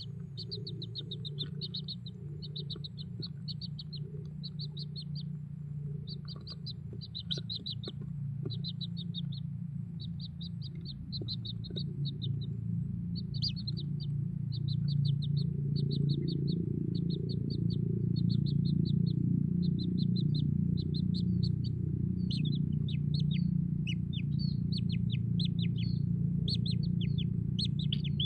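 Kingfisher chicks calling in quick, chattering bursts about once a second without let-up, as nestlings do when begging for food. A steady low rumble runs underneath and grows louder about halfway through.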